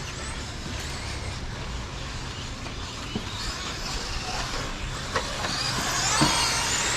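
Radio-controlled stadium trucks racing on a dirt track, their electric motors whining up and down in pitch as they speed up and brake. There are a few short clicks, and the whine gets louder over the last couple of seconds as the trucks come close.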